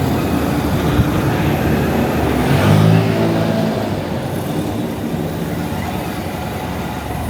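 Wind rushing over the camera microphone on a moving Honda Monkey motorcycle, with its small single-cylinder engine running underneath in traffic. An engine note rises briefly about two and a half seconds in, then the sound eases slightly.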